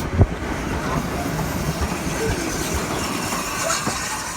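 Railway carriage running along the track behind a steam locomotive: a steady rumble of wheels on rails, with a single sharp knock just after the start and faint brief squeals from the wheels.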